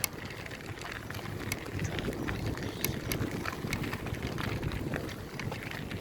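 Bicycle being ridden, with wind rumbling on the microphone and irregular sharp clicks and rattles from the bike throughout.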